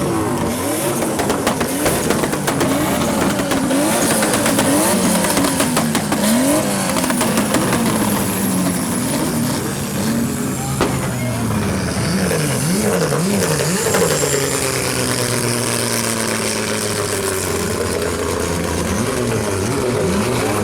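Turbocharged drift car engines revving up and down again and again, with a rapid crackle of anti-lag pops and bangs from the exhaust.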